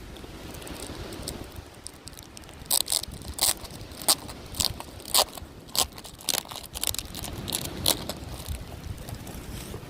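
Plastic packaging of a fireworks pack crinkling and tearing as it is opened by hand, a run of sharp crackles from about three to eight seconds in, over a low rumble of wind on the microphone.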